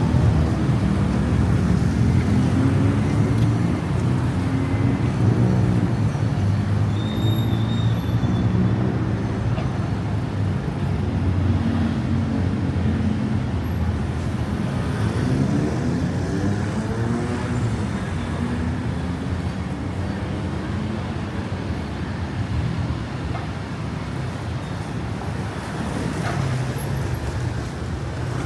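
City road traffic: car and bus engines running and passing close by, their pitch rising and falling as vehicles move off and go by.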